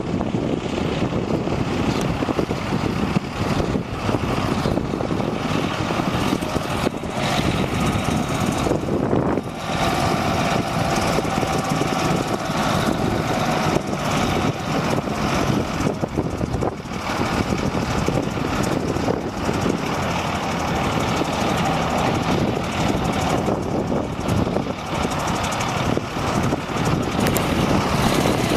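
The diesel engine of a 1997 International 2674 heavy crane truck running steadily.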